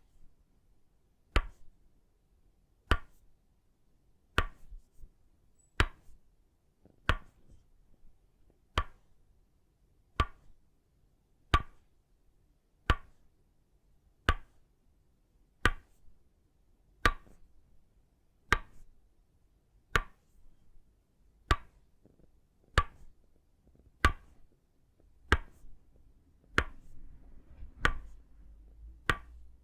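Tok sen massage tapping: an itaúba-wood mallet strikes a wooden peg in a slow, steady rhythm. The knocks are single and sharp, about one every second and a half, and each one rings briefly.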